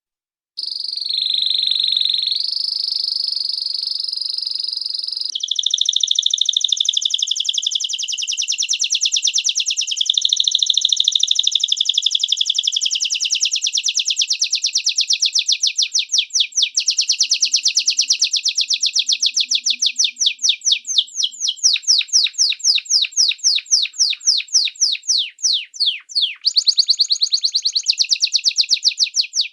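A small songbird singing: a high, steady whistle that starts abruptly about half a second in, then long runs of fast, rapidly repeated trill notes that become more clearly separated in the second half.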